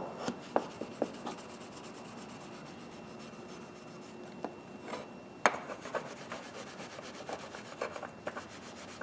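Fine 4/0 steel wool rubbing over the blued steel of a pair of groove-joint pliers, a steady scratchy rub that burnishes the fresh bluing to a sheen. A few sharp clicks of the pliers being handled come near the start and once about halfway.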